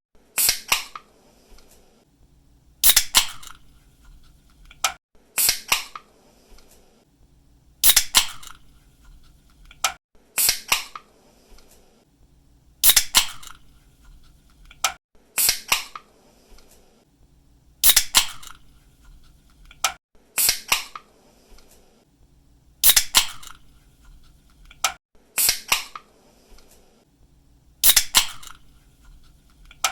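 Aluminium drink can tab being cracked open again and again: a sharp snap followed by a short fizzing hiss, about every two and a half seconds.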